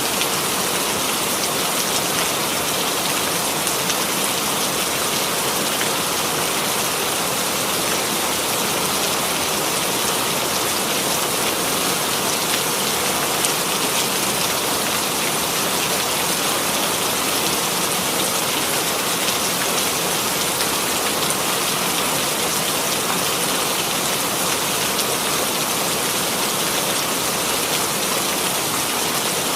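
Steady rain falling and pattering on a surface, an even hiss with fine drop ticks and no let-up.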